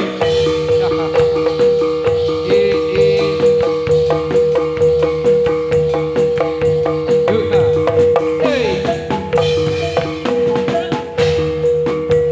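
Live gedruk dance accompaniment: gamelan-style metallophones and drums keeping a steady beat over a long held note, with a shaken rattle running through it.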